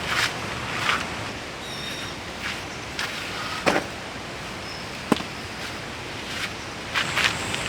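Steady rushing of a mountain stream, with several short knocks and rustles from handling gear scattered through.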